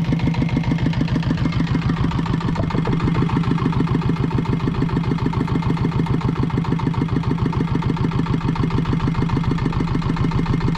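Small fishing boat's engine running steadily at idle, with an even, rapid beat.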